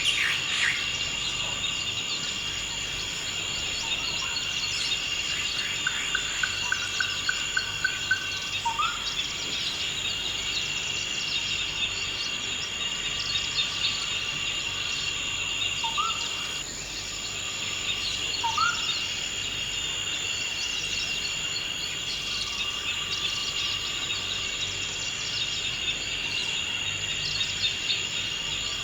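A forest insect chorus trilling steadily on an unbroken high pitch, with a few short rising bird calls and a quick run of bird notes about a quarter of the way in.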